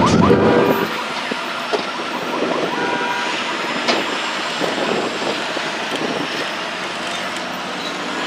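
Tour tram rolling along with a steady running and road noise and a few faint clicks. A wailing, siren-like effect from the set cuts off within the first second.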